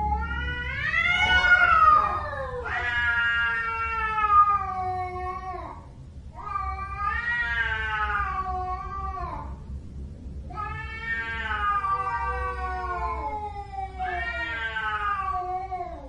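Domestic cat yowling: a series of about five long, drawn-out calls, each two to three seconds, with the pitch wavering up and down.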